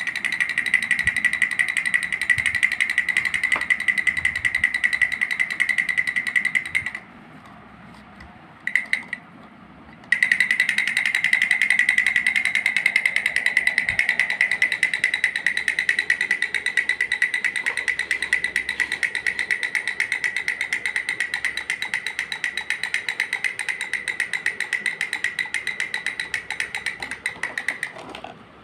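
Sound toy giving off a rapid, high-pitched pulsing buzz. It stops for about three seconds partway through, with one short blip in the gap, then starts again and runs until just before the end.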